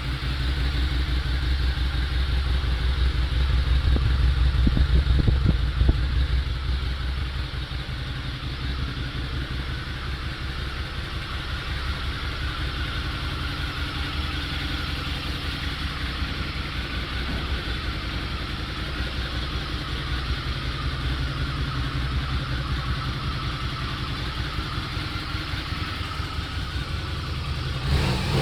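2006 Harley-Davidson VRSCD Night Rod's V-twin running through its stock exhaust. It runs a little higher and louder for a few seconds, then settles to a steady idle. The owner finds it very quiet and a little tinny, with no bass.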